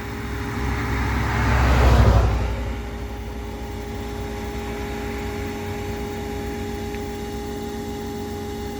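A car driving past on the road, growing louder to a peak about two seconds in and fading away, over a steady low hum.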